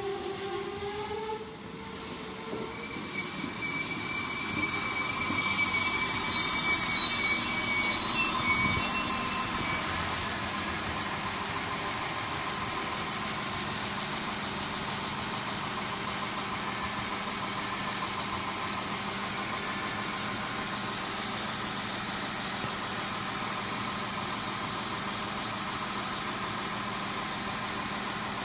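Koleje Dolnośląskie passenger railcar arriving: a horn note ends in the first second or so, then a high brake squeal rises as the train slows, loudest just before it stops about ten seconds in. After that the railcar stands with a steady running hum.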